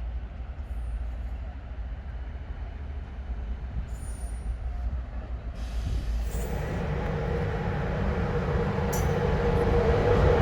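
A low steady rumble at first, then a train pulling into the station: from about six seconds in it gets steadily louder, with a steady tone and a growing wheel-and-rail noise.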